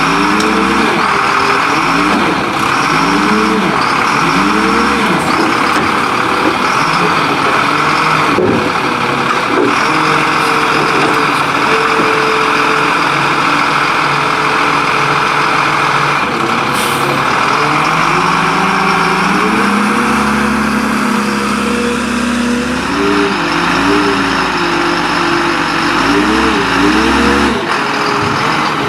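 Diesel engine of a Leach Curbtender garbage truck revving up and falling back again and again, with a brief hiss of air partway through.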